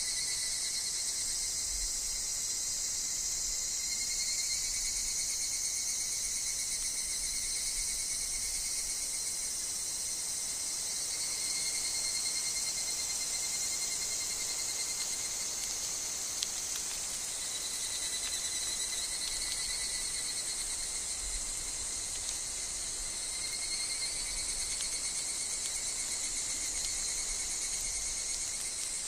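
Dense, continuous woodland insect chorus with higurashi (evening cicadas) calling: a steady high-pitched shimmer with thinner wavering tones beneath it. A faint low rumble of wind runs under it.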